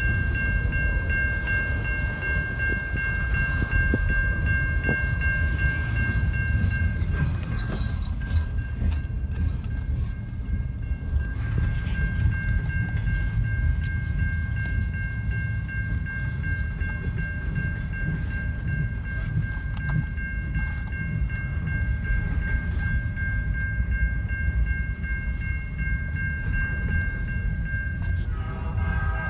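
Double-stack container freight train rolling steadily through a level crossing, a continuous low rumble of cars on the rails. Over it the crossing warning bell rings in steady high tones, dropping out for a few seconds about a quarter of the way in.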